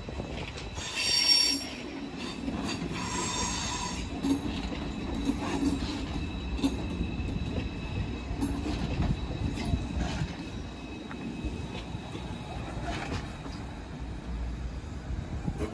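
A train running by: a steady low rumble of wheels on rail with scattered knocks, a loud, brief, high-pitched wheel squeal about a second in and a weaker squeal around three seconds in.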